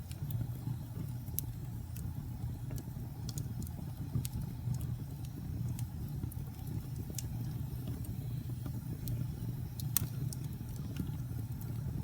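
Wood fire in a fireplace burning with a steady low rumble and irregular sharp crackles and pops, one louder pop about ten seconds in.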